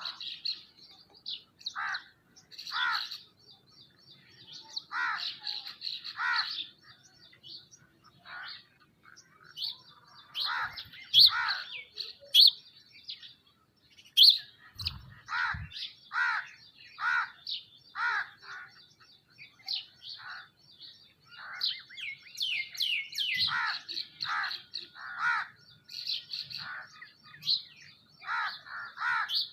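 Many birds chirping and calling together, a steady high chatter with frequent short, louder calls. A few soft low thumps are heard partway through.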